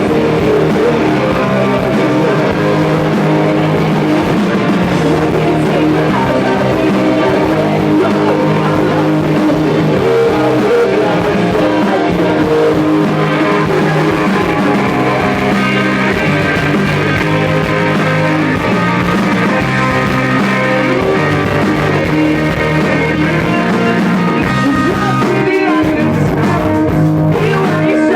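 Rock band playing live through the venue's amplification during a sound check, guitars to the fore, loud and steady.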